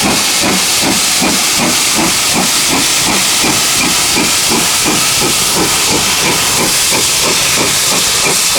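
Steam locomotive under way, GWR Manor class 4-6-0 No.7802 Bradley Manor, its chimney exhaust beating at an even rhythm of about four to five beats a second over a steady loud hiss of steam.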